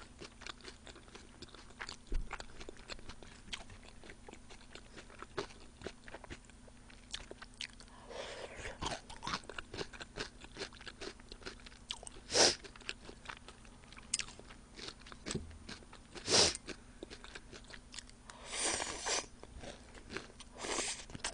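Close-miked chewing and crunching of sliced raw onion, with many small wet mouth clicks and two louder crunches partway through.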